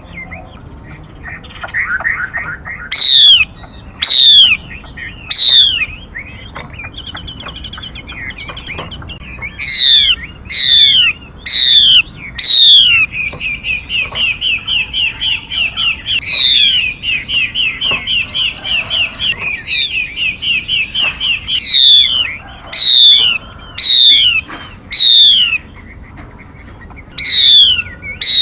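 Female 'mi' songbird calling: loud, sharp whistled notes that sweep steeply downward, given in groups of three or four. In the middle comes a fast run of short repeated notes lasting about eight seconds.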